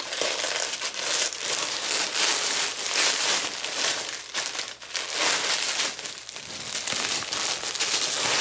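Packaging crinkling and rustling in repeated surges as packages of returned clothing are handled and stuffed into a bag.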